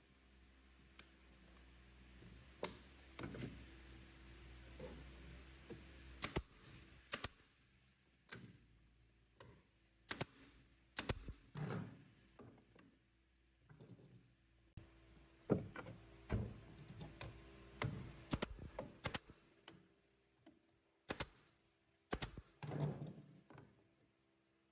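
Irregular knocks and thunks of wood being handled and tapped, sometimes several a second. A low steady hum stops suddenly about six seconds in.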